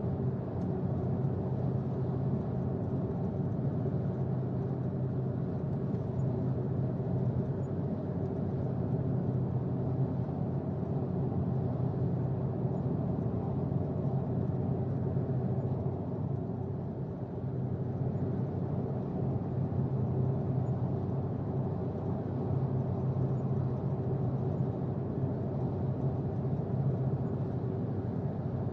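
Steady low road and engine rumble heard from inside a moving vehicle's cabin, with a constant low hum throughout and a brief slight easing in level around midway.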